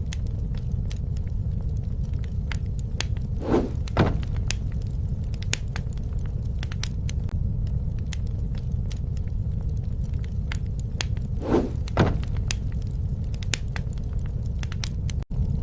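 Campfire burning: a steady low rumble of the flames with continual sharp crackles and snaps of burning wood, and two louder double pops about four and twelve seconds in.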